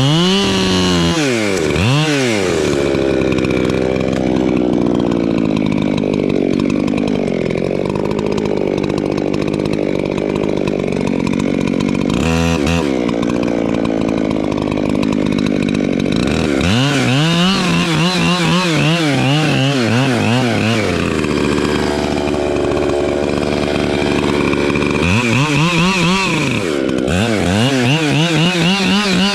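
Echo chainsaw running loud, its engine pitch swinging up and down in repeated revs, with longer steady stretches in between.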